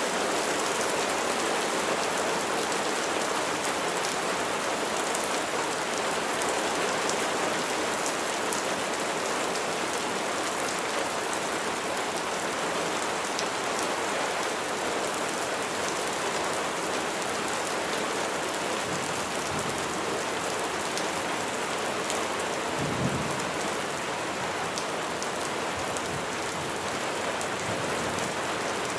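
Steady rain, a dense even hiss with individual drops ticking through it, and one brief low thump about two-thirds of the way through.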